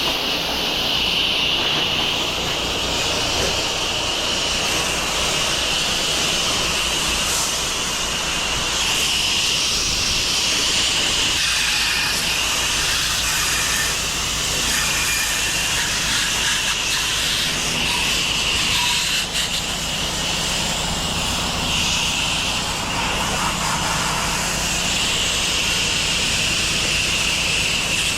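Pressure washer running steadily, its high-pressure water spray hissing over a constant engine drone.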